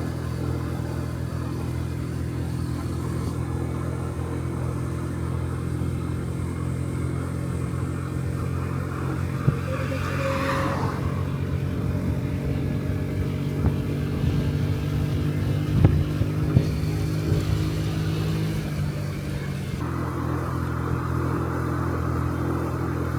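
Honda Dio Cesta 50cc four-stroke scooter engine running steadily under load while riding, struggling for power at around 20 km/h. A brief swell of rushing noise comes about ten seconds in, and the engine note changes near the end.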